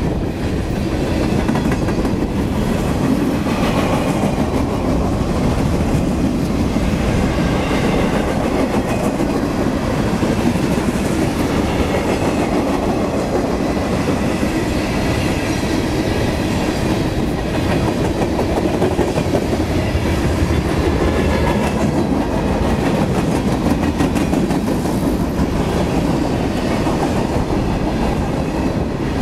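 Freight cars of a CSX manifest train rolling past at speed: a steady, loud rumble of steel wheels on the rails with clickety-clack over the joints.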